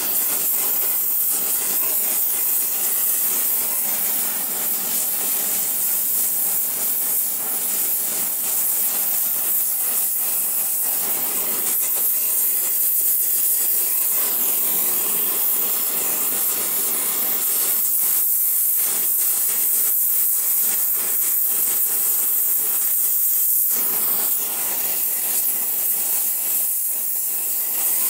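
Oxy-acetylene torch flame hissing steadily, heating a rusted, seized exhaust manifold stud to free it.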